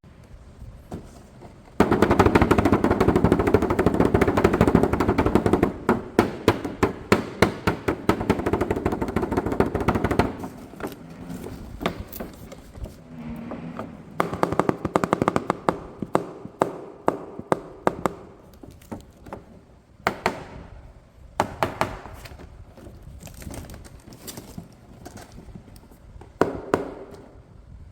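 Plastic packaging being handled, crinkling and crackling in a dense run of rapid clicks for the first several seconds, then in shorter bursts.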